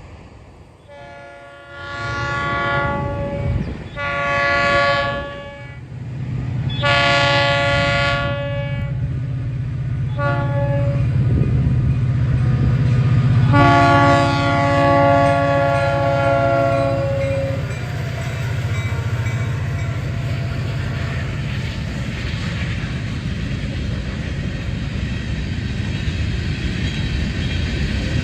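Diesel locomotive air horn sounding a grade-crossing sequence: several long chord blasts, one short blast, then a final long blast of about four seconds. Under the horn is the steady low rumble of the passing train's engine, which gives way to the rushing noise of the train rolling by.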